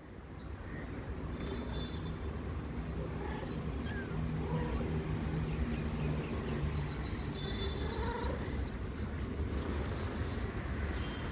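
Mother cat purring as her kittens nurse: a low, steady, finely pulsing rumble, with faint short high chirps now and then.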